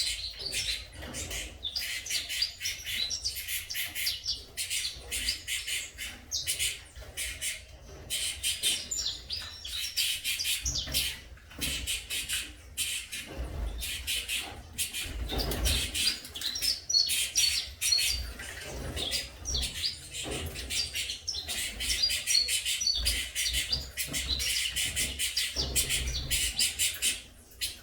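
Saffron finch chicks chirping: a dense, continuous stream of rapid, high-pitched chirps from several young birds, with low rumbles from handling or movement around the middle.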